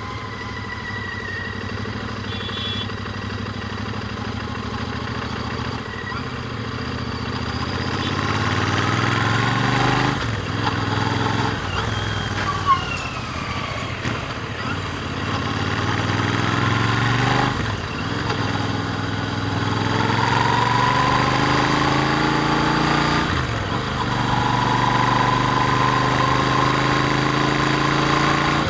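Royal Enfield Interceptor 650's parallel-twin engine through its stock exhausts, riding and accelerating through the gears: the pitch climbs, drops briefly at each upshift about ten, seventeen and twenty-three seconds in, then climbs again. A single sharp click about halfway through.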